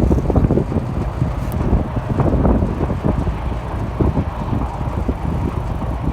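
Tractor pulling a grain seed drill across a field: a steady low engine rumble with irregular rattling and knocking, and wind buffeting the microphone.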